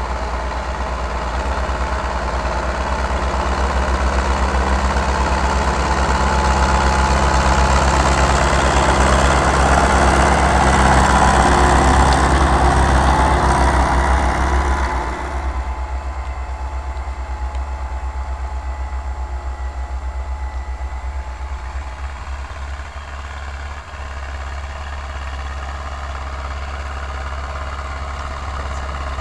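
Belarus MTZ tractor's four-cylinder diesel engine running while ploughing. It grows louder over the first half, then drops sharply about halfway through to a quieter steady run.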